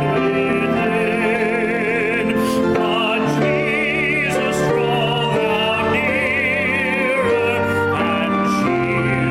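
A hymn being sung with accompaniment: held notes that change every second or so, with a voice carrying strong vibrato on the long notes.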